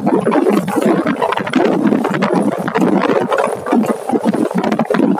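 Suzuki motorcycle's engine running as it is ridden, a continuous uneven sound.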